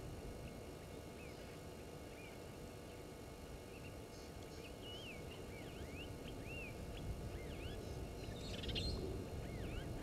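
Birds giving many short whistled chirps that rise and fall, with a brief harsh call near the end, over a steady low rumble of background noise.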